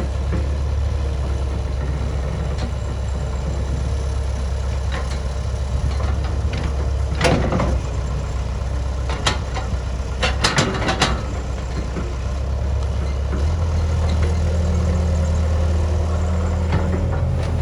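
Bulldozer's diesel engine running steadily, with several sharp metallic clanks near the middle. The engine note steps up a little about three-quarters of the way through.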